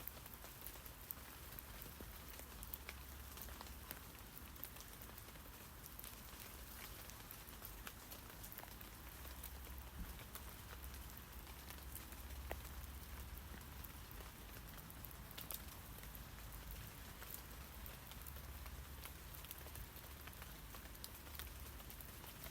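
Steady light rain pattering on tree leaves: a faint hiss full of small, scattered drop ticks.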